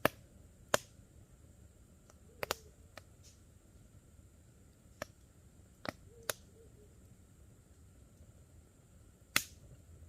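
Campfire wood crackling: sharp, scattered pops from the burning logs, about nine in ten seconds, the loudest near the start, just under a second in, and about nine seconds in.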